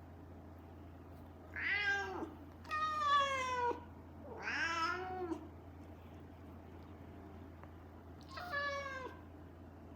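A Siamese-mix cat meowing four times, each call under about a second long, mostly with a falling pitch; the third rises and then falls. The cries come in a repeated series with pauses between them, over a steady low hum.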